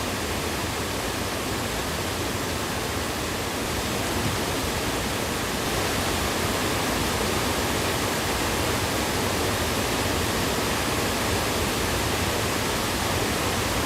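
Steady rush of river water, an even noise without breaks that grows slightly louder a few seconds in.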